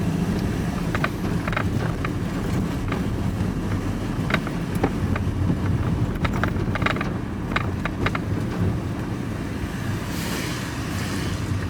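Steady engine and road noise heard from inside a vehicle's cab while driving, with scattered small clicks and rattles and a brief rush of hiss near the end.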